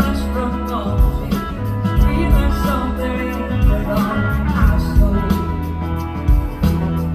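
Live band playing a blues-rock song: drum hits, a steady bass line and guitar, with a bending melodic lead line over it.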